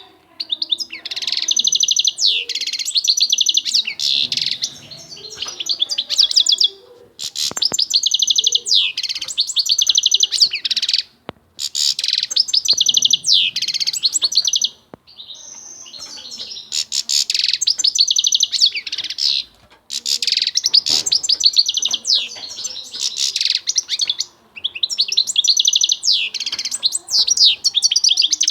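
European goldfinch singing: a run of fast, liquid twittering and trilling phrases of a few seconds each, with brief pauses between them.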